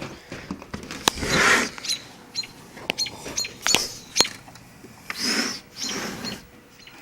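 Small birds outside chirping several times in short, high notes, mixed with close clicks and rustling, likely from a phone being handled.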